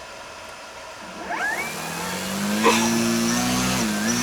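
A radio-controlled model airplane's motor spins up with a quick rising whine, then runs at a steady pitch with a brief dip near the end. A sharp click comes about two and a half seconds in.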